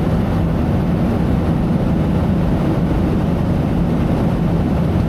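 Boat engine running steadily, a continuous low rumble with a steady hum.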